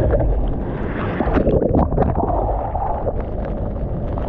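Water rushing and sloshing around the microphone, with wind buffeting it, and a few short splashy bursts between about one and two seconds in.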